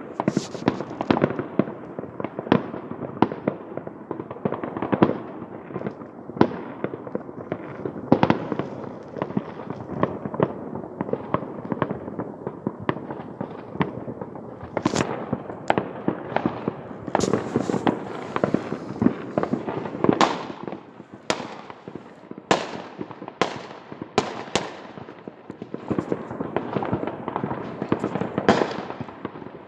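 Many fireworks going off at once, a dense, irregular barrage of bangs and crackles over a continuous rumble, with several louder, sharper cracks in the second half.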